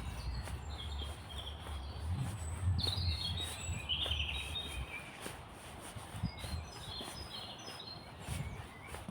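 Small songbirds chirping and trilling in quick, overlapping high phrases, over a low rumble that fades out about halfway through.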